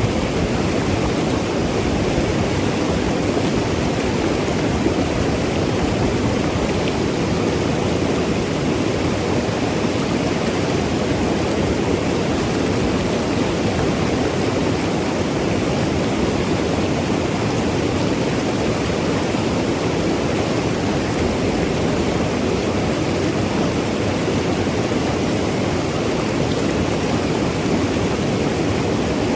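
Mountain river rushing and gurgling over rocks, a steady loud wash of flowing water with no breaks.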